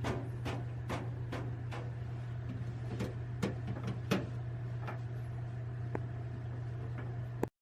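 Steady low hum with light clicks and taps on top, about two a second at first, then sparser; it all cuts off abruptly near the end.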